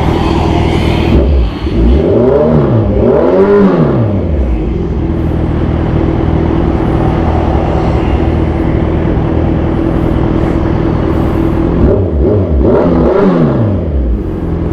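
Kawasaki Z1000 Sugomi's inline-four engine idling through a loud aftermarket exhaust, revved up and back down twice in quick succession about two seconds in, and again twice near the end.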